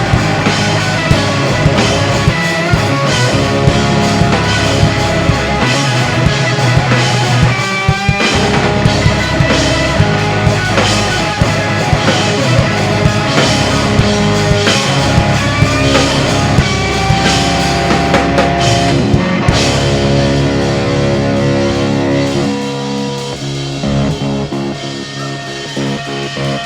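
Rock band playing an instrumental passage: electric guitar over bass and drum kit, with no singing. About 22 seconds in the band drops back and the sound gets quieter and thinner.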